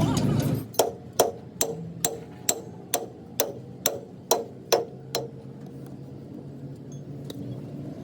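A hammer striking metal in a steady rhythm, about eleven ringing blows a little over two a second, that stop about five seconds in, over a low steady workshop hum.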